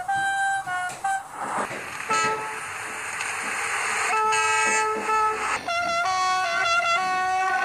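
Train horns sounding in a string of short toots and longer held blasts at several pitches, with a stretch of rushing train noise under a horn early in the middle.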